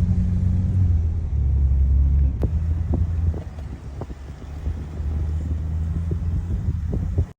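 Low, steady rumble of a vehicle in motion, with scattered short knocks and rattles; it cuts off abruptly near the end.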